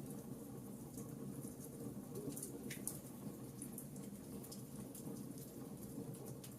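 Wood fire burning in a fireplace, crackling with frequent small irregular pops over a steady low rumble, and one short falling hiss about three seconds in.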